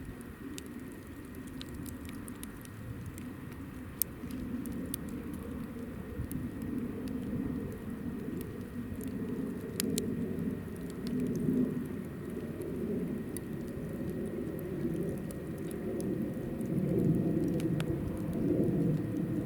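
Hinoki firewood burning in a campfire: a low, steady rumble of flames with scattered sharp crackles and pops, growing somewhat louder in the second half.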